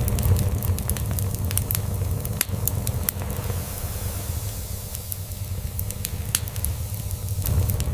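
Log fire crackling with frequent sharp pops, over a low, fluttering cat purr. The purr eases off about halfway through and comes back near the end.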